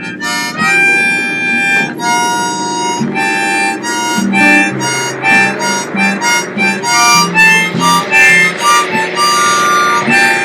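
Instrumental break in a song: a harmonica plays a quick run of short notes over a band accompaniment with guitar.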